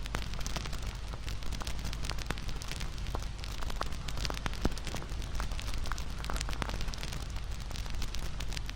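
Campfire burning with a steady, dense crackle of sharp pops and snaps over a low rumble of the flames.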